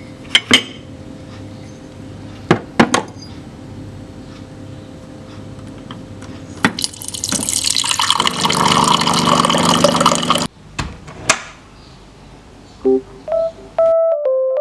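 Sharp clicks and knocks of things being handled, then about three seconds of water pouring into a container with a ringing, pitched resonance, stopping abruptly, followed by two more clicks. A few soft piano notes come in near the end.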